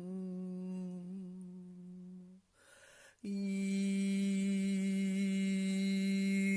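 Vocal toning: a voice humming a long, steady low note that fades out about two and a half seconds in, a breath, then a second long hum starting just after three seconds at nearly the same pitch.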